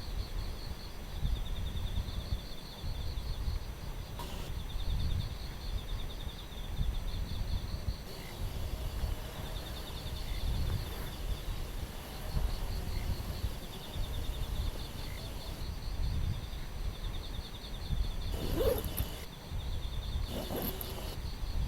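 Outdoor forest ambience: wind gusting against the microphone as an uneven low rumble, under a high chirping that pulses evenly in the background. Two short calls stand out a little before the end.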